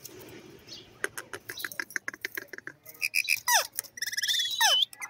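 Indian ringneck parakeet calling: a run of quick clicks, then short whistled notes and squawks that slide sharply downward in pitch, growing louder near the end.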